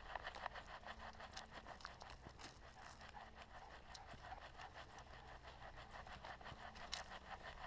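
A dog panting fast and steadily, about four or five breaths a second, with faint scuffing steps on the trail.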